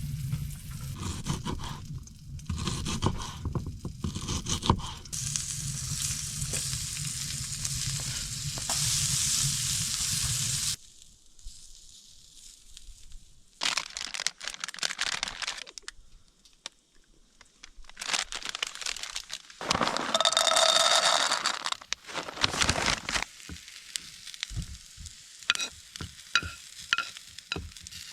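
Food sizzling in a frying pan, stirred with a utensil, with scraping and sharp clinks against the pan. The sizzle stops suddenly about eleven seconds in and comes back in shorter bursts.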